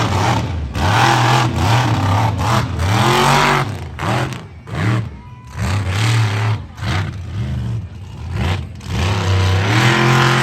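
Large vehicle engine revved hard again and again, its pitch rising and falling in repeated blips of about a second each.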